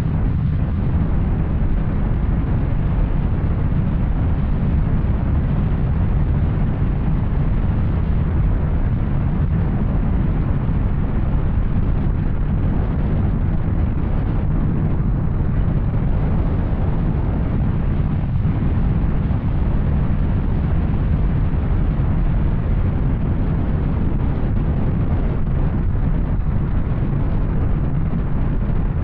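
Yamaha Tracer 900's three-cylinder engine running through an Arrow exhaust while riding at a steady pace, with a deep, even rumble mixed with wind rush.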